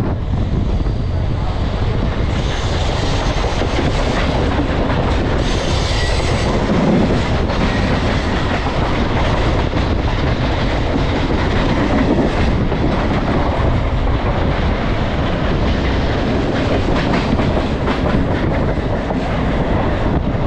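Mumbai suburban electric local train running at speed, heard from its open doorway: wheels clattering over the rail joints over a steady running noise.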